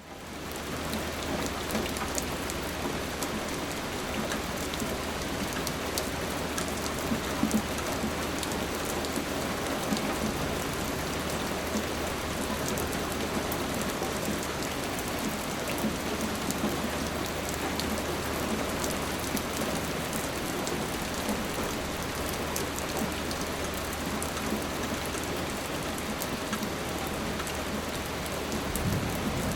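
Steady rain falling, with individual drops ticking sharply on a surface through the hiss. It fades in from near silence over the first second, then holds steady.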